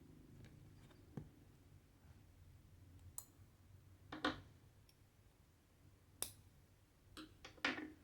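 Hand cross-stitching on cotton fabric: a few faint clicks of the needle going through the cloth, and two short swishes as thread is drawn through, about four seconds in and near the end.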